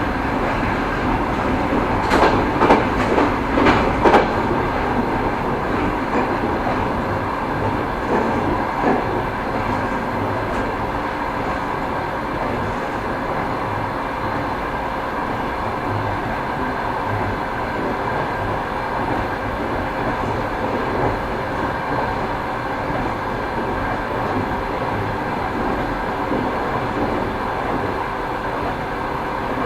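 Railway carriage wheels running over rail joints, a steady rumble with a quick cluster of clacks about two seconds in and another knock around nine seconds.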